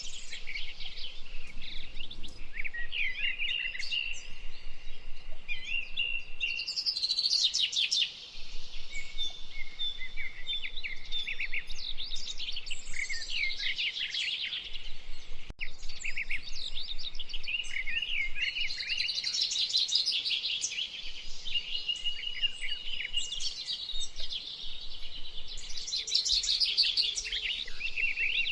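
Several wild birds singing at once in a dense, continuous chorus of overlapping chirps, trills and short whistled notes.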